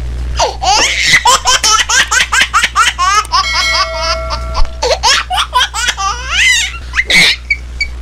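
High-pitched laughter sound effect: a long run of quick laughing bursts, with a few steady electronic tones held briefly about halfway through, over a steady low hum.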